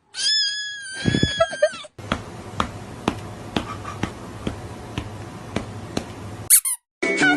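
A cat's long drawn-out meow lasting about two seconds, with a few low thumps under its end. It is followed by a steady hiss with a sharp click about twice a second, and a brief squeaky glide near the end.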